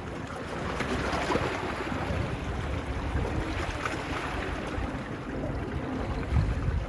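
Small waves washing on a beach, with wind buffeting the phone's microphone in a low rumble.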